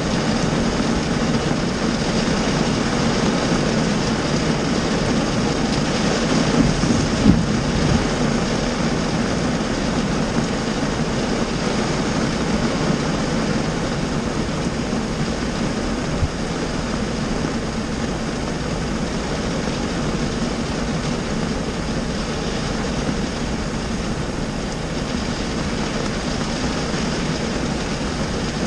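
Heavy rain drumming steadily on a car's roof and windshield, heard from inside the cabin, with a single louder knock about seven seconds in.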